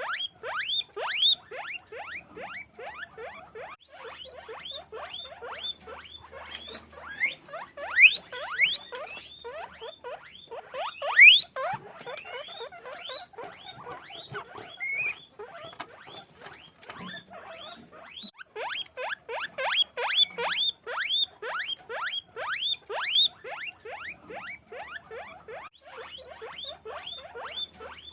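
Guinea pigs squeaking nonstop: many short, rising squeaks, several a second and overlapping, with louder bursts here and there.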